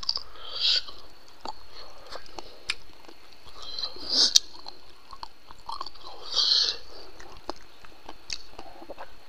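A person chewing pork curry close to the microphone, with scattered small mouth clicks and three short louder mouth sounds: about half a second in, about four seconds in and about six and a half seconds in.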